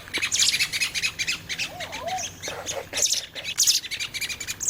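Birds calling in rapid, harsh runs of high chips and squawks, the alarm calls of birds agitated by a cat, with two lower whistled notes about two seconds in.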